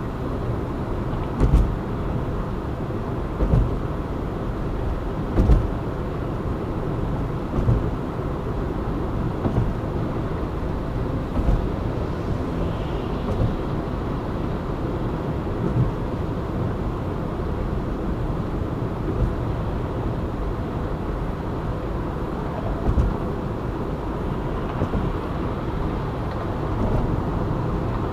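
Steady road and engine noise of a car driving on a city motorway. Low thumps come about every two seconds through the first half, then less often.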